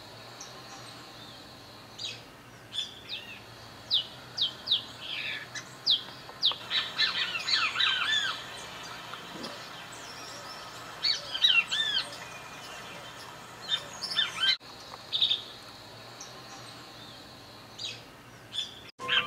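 Wild birds calling: a mix of short, sharp downward-sweeping chirps and busier clusters of arched, warbling notes, coming in bursts over a faint steady outdoor background. The sound cuts out for an instant twice, once past the middle and once near the end.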